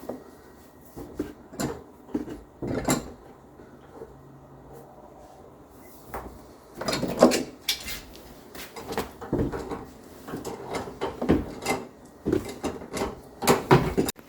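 Irregular clunks, taps and scrapes of a garden hose coupling being handled and screwed onto a water heater's drain valve.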